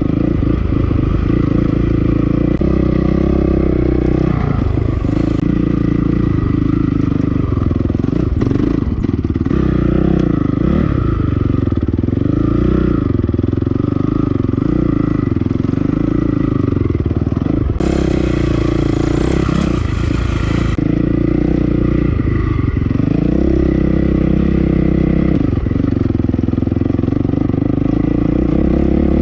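2008 Honda CRF450R's single-cylinder four-stroke engine revving up and down again and again as the bike is ridden around a motocross track, with chassis rattle over the bumps.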